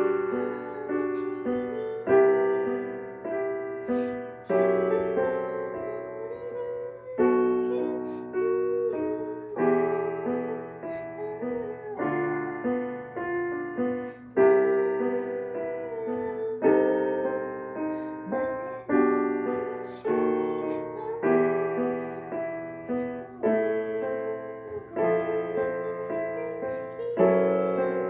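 Slow, gentle solo piano music: chords and melody notes struck every second or two, each ringing and dying away.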